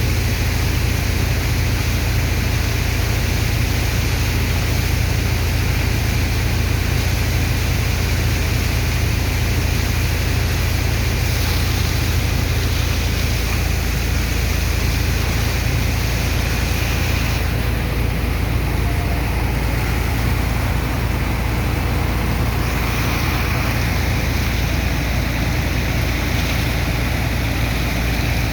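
Sand dredger's engine and water pump running steadily with a deep rumble under a constant rushing hiss of pumped water and sand; the hiss thins slightly about two-thirds through.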